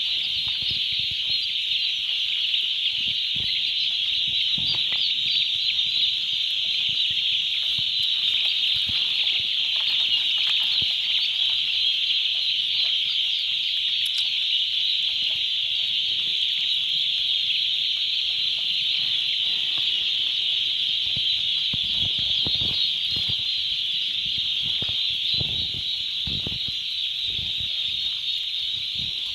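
A brood of day-old turkey poults peeping together in a continuous, dense, high-pitched chorus, with a few soft knocks in the last third.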